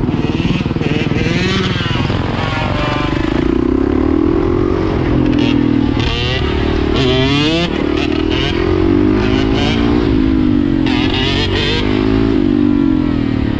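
Dirt bike engine running and being revved, its pitch rising and falling again and again, with one sharp rev about halfway through.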